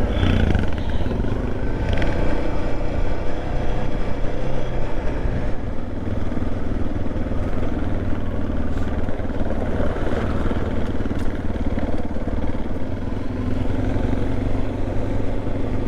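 Motorcycle under way, its engine running steadily with continuous road noise.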